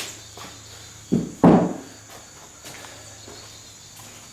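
Two dull thuds about a second in, the second the louder and longer, with a few light clicks around them: parts or tools being handled and set down in a workshop.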